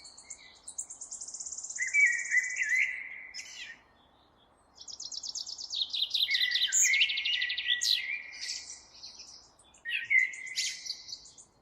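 Songbirds singing in a run of phrases, with fast high trills and swooping whistled notes, broken by short pauses about four seconds in and again near the end.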